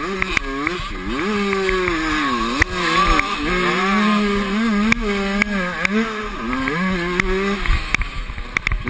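Motocross motorcycle engines revving, their pitch rising and falling repeatedly with the throttle. From about two seconds in, one engine holds near a steady pitch until about seven and a half seconds, then swings up and down again.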